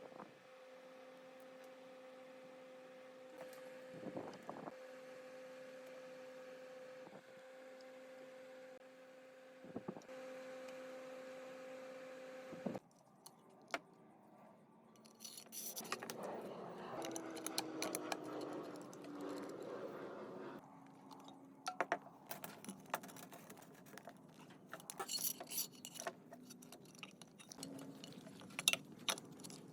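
A steady mechanical hum with a few knocks. About thirteen seconds in it gives way to light metal clinking and scraping, like small metal parts being handled and worked.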